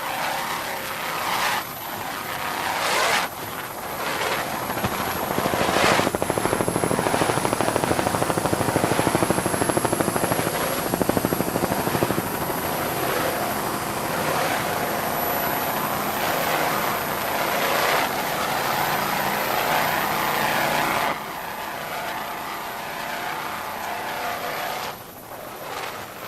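A helicopter's rotor chopping with a fast, even beat. It swells to its loudest from about four seconds in, then eases off about twenty seconds in.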